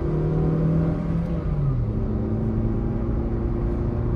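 Maruti Swift ZXI+ AGS 1.2-litre petrol engine pulling under full-throttle acceleration, heard from inside the cabin. About a second and a half in, the engine note drops as the automated manual gearbox shifts, a slow, laggy shift.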